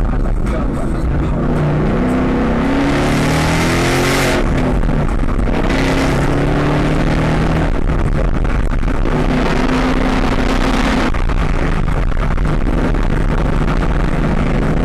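2015 Ford 5.0-litre V8 accelerating hard through the gears, heard from inside the car: the engine note climbs to a peak about four seconds in, drops at an upshift, climbs again, holds steady, then falls back to a lower cruise near the end.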